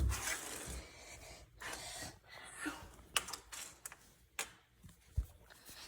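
Plastic toy trains and track being handled: scattered light clicks and knocks, a few sharp ones.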